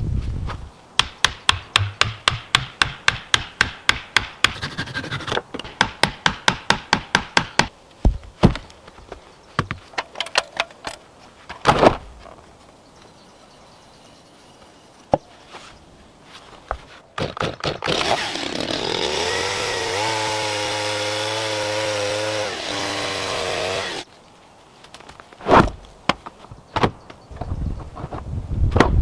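Wood being worked with a hand tool: fast even strokes, about four a second, in two runs, then a few separate knocks. Later a steady whine with a wavering pitch runs for about six seconds, then more knocks.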